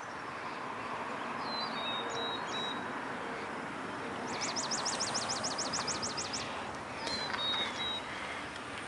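Birds singing: short high chirps, then a fast trill of about seven quick sweeping notes a second for about two seconds near the middle, and another short chirp after it. Steady background hiss runs beneath.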